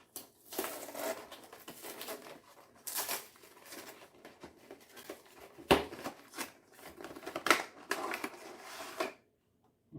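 Plastic wrapping and cardboard packaging of a trading-card collection box being torn open and crinkled by hand, a continuous rustle with a couple of sharper cracks about six and seven and a half seconds in.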